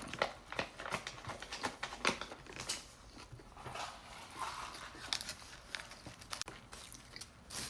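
Close-miked eating sounds: chewing a wrap and fries, with many short wet clicks and crackles, and a paper wrapper crinkling.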